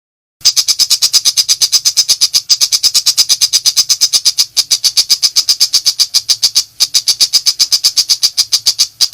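Shrike (pentet macan) calling in a rapid, harsh, high-pitched chatter of about eight or nine notes a second. The run is broken by three brief pauses and stops abruptly near the end.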